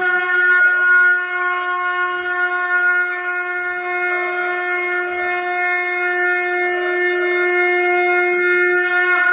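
Conch shell (shankh) blown in one long, steady, held note.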